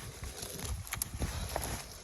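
Ice being knocked and chipped off a truck: a series of irregular hard knocks and crunches, several a second.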